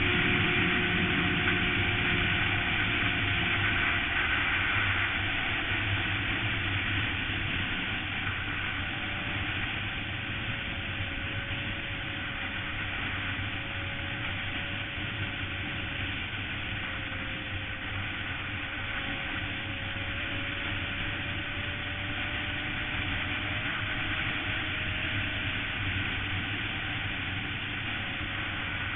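Suzuki GSX-R sportbike's inline-four engine running under way, with steady rushing noise over it. The sound eases down in level and slightly in pitch over the first several seconds, then holds steady.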